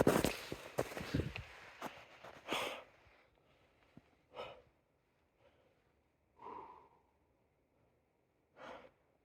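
A person's footsteps in the first three seconds, then three breathy exhalations about two seconds apart, typical of a hiker's heavy breathing.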